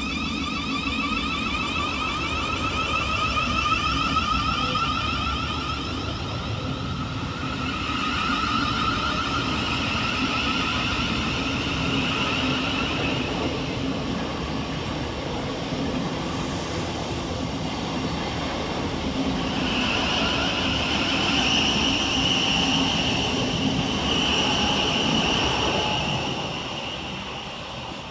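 Thameslink Class 700 electric multiple unit pulling away and running past, its traction equipment giving high steady whining tones over the rumble of wheels on the rails. The sound fades near the end.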